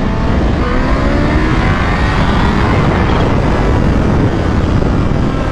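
Motorcycle ridden at speed: heavy wind rush on the rider's microphone, with the engine note climbing for the first few seconds as the bike accelerates, then settling under the wind.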